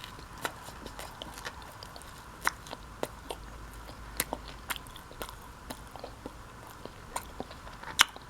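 Close-up mouth sounds of chewing a Subway Spicy Italian sandwich: irregular wet clicks and smacks, with one sharp louder click near the end.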